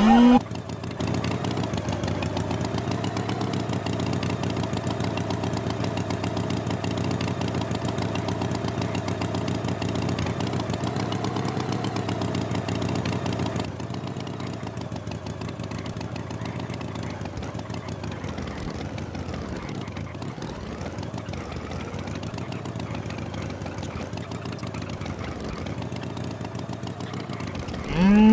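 Engine idling steadily with an even, rapid pulse, dropping a little in level about fourteen seconds in.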